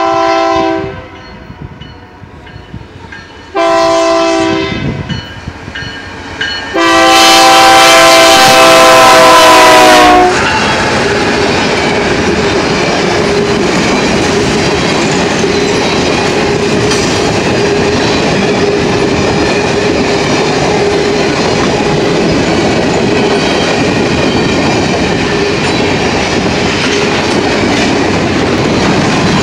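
Canadian Pacific freight locomotive's multi-chime air horn sounding a chord at a grade crossing: a blast ending about a second in, a short blast, then a long loud blast whose pitch drops as the locomotive passes. Then the freight cars, covered hoppers and centerbeam flatcars, roll steadily past with a continuous rumble and wheel clatter.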